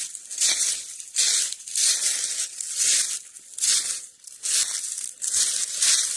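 Footsteps crunching through dry leaf litter, about one and a half steps a second, as someone walks uphill through the woods.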